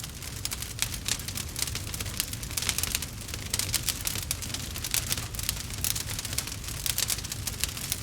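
Wood bonfire crackling, with dense irregular pops and snaps over a steady low rumble.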